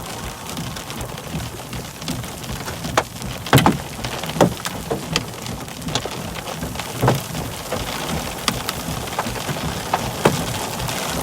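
Rain in a thunderstorm: a steady hiss with scattered heavy drops striking close by as irregular sharp ticks.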